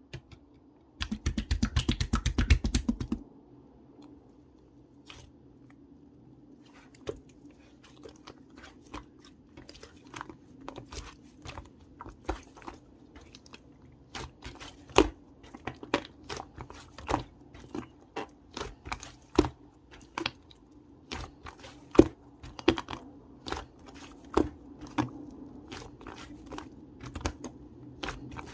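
Pink pearl slime being pressed and worked by hand, giving sharp sticky clicks and pops of trapped air that come faster and louder as it goes on. About a second in there is a dense crackling rustle lasting about two seconds.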